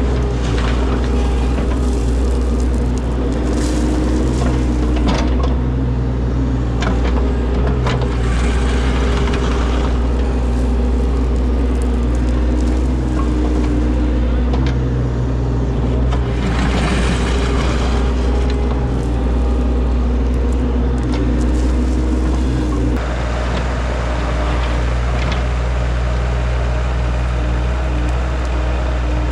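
Diesel engine of heavy digging equipment running steadily, its pitch rising and falling with the work, with occasional knocks and a burst of scraping about two-thirds of the way through.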